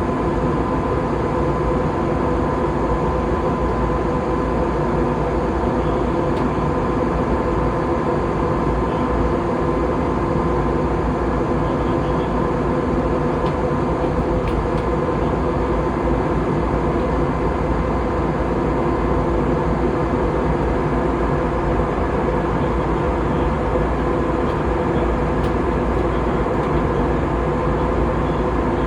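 Steady jet-airliner cabin noise in flight: the engines' even drone and airflow, with a constant hum of several fixed tones over a deep rumble.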